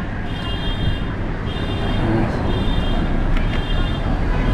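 Steady low engine rumble of heavy paving equipment, with a high reversing alarm beeping about once a second.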